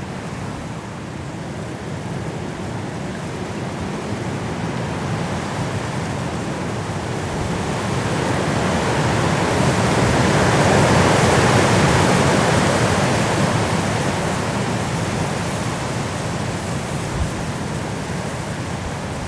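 A steady rushing noise that swells to its loudest about halfway through and then fades again.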